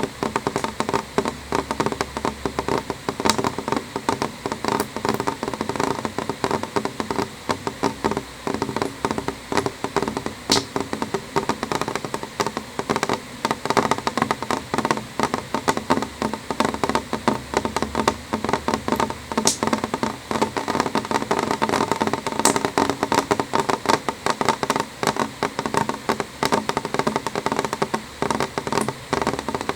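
Rain on a window: a dense, steady stream of small drops tapping on the glass, with now and then a sharper single drop.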